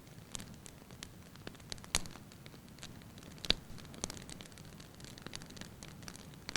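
Wood fire burning in a fireplace: a soft steady hiss with irregular sharp crackles and pops from the logs, the loudest about two seconds in and again about three and a half seconds in.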